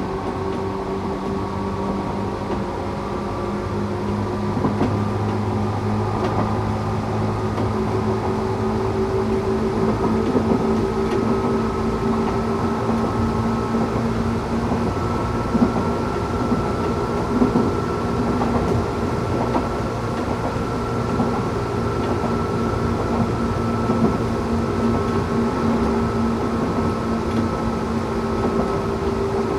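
Tokyu 8500 series electric train running at speed, its Toyo-made traction motors giving a steady whine in several tones that drift slowly in pitch over the rumble of the wheels on the rail, with a few short knocks about halfway through.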